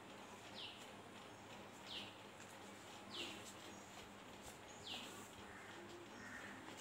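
A faint bird call: a short, falling whistled note repeated four times, roughly every second and a half, over a low steady background hiss.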